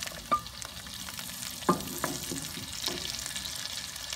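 Diced tomatoes going into a hot wok of browned pork belly and onions, sizzling steadily, while a wooden spoon pushes them off a plate and stirs, clacking against the pan a few times.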